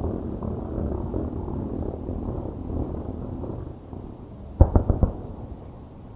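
Aerial fireworks: a continuous low rumble of distant bursts and crackle, then a quick volley of about five sharp bangs just under five seconds in, after which the rumble dies down.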